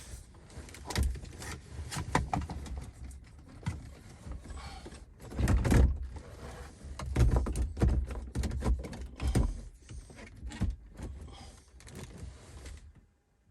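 Irregular clunks, knocks and rustling from hands and tools working on car trim and parts, with a cluster of heavier thumps in the middle; the sound cuts off abruptly near the end.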